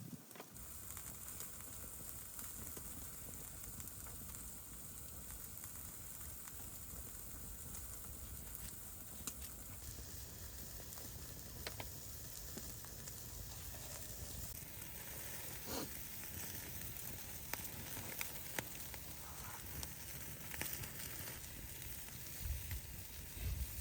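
Food sizzling as it fries: a steady hiss with scattered small pops and crackles.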